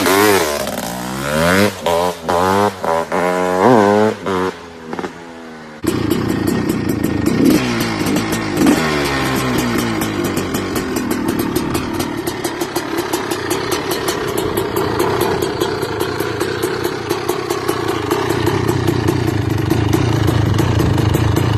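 Honda CR500's single-cylinder two-stroke engine being blipped, its note rising and falling in short revs with drops between them. About six seconds in, the sound changes suddenly to the engine running steadily at a held speed with a fast, rattly exhaust crackle.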